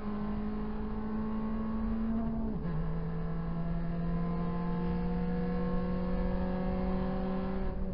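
Proton Saga race car's four-cylinder engine accelerating hard, heard from inside the cabin. The revs climb, drop with an upshift about two and a half seconds in, then pull up slowly again in the next gear.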